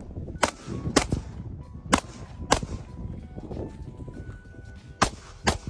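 Six pistol shots from a Glock 19, fired irregularly while shooting on the move: two shots about half a second apart, a pause, two more, a longer gap of about two and a half seconds, then a final pair. Faint background music plays underneath.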